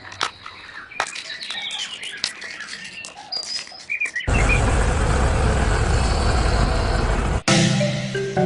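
Birds chirping faintly among light clicks. About four seconds in, a loud steady rushing noise starts abruptly and cuts off about three seconds later. Music with plucked-sounding notes begins right after.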